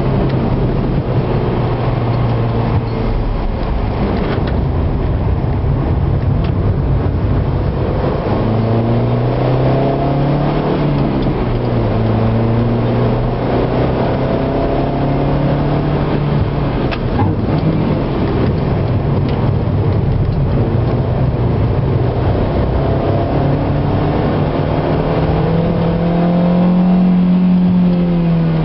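Car engine heard from inside the cabin, driven hard: its pitch climbs under acceleration and drops back several times, with one long rise near the end before it falls away.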